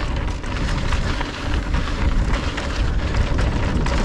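Wind rushing over the action camera's microphone and tyres rolling over a loose dirt trail as a mountain bike descends at speed, with scattered clicks and rattles as the bike is bumped around.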